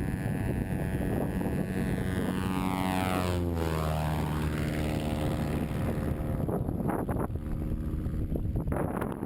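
Lake Amphibian seaplane making a low, close fly-by: its single pusher-propeller engine is loud and drops sharply in pitch as it passes, about three and a half seconds in, then dies away near the end.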